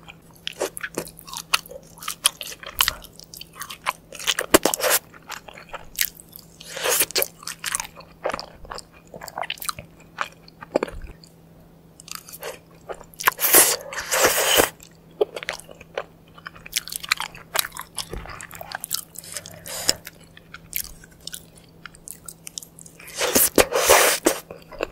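Close-miked ASMR eating: crisp bites and chewing of crunchy fried food, a dense run of sharp crackles with a few louder crunching bites about a quarter of the way in, in the middle and near the end. A faint steady low hum sits underneath.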